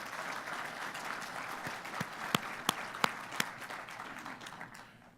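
Audience applauding in welcome. Four single claps stand out louder in the middle, and the applause dies away near the end.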